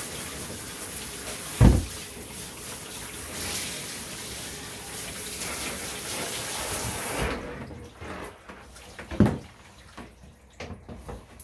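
Water running into a bath tub, cutting off about seven seconds in. Two short low thumps sound over it, one a couple of seconds in and one about nine seconds in.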